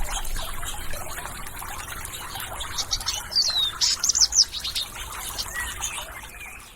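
Birds chirping, with a cluster of quick high calls and a falling whistle about halfway through, over a steady trickle of water. The whole soundscape drops away near the end.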